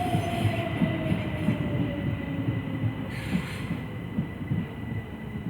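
Class 377 Electrostar electric multiple unit slowing: its traction motor whine falls steadily in pitch over the rumble of wheels on rail, with a faint steady high tone alongside.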